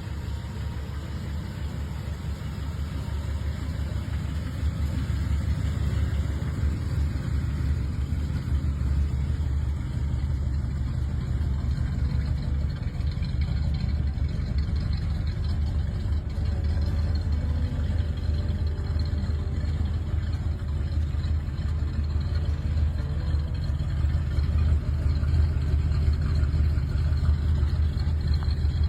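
A 350 cubic inch Oldsmobile V8 with dual exhaust idling steadily, with a deep exhaust note that gets a little louder over the first few seconds and then holds.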